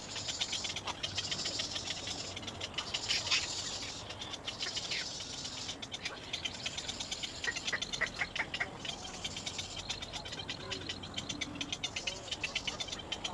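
Little egret chicks calling for a parent with rapid, repeated high ticking notes, growing louder in brief runs.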